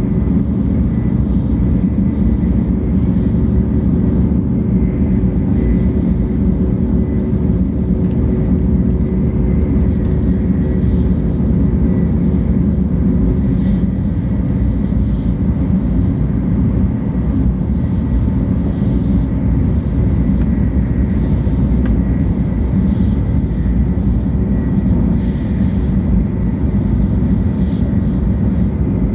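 Steady low rumble of a 700 series Shinkansen train running, heard inside the passenger cabin, with a few faint steady tones over the running noise.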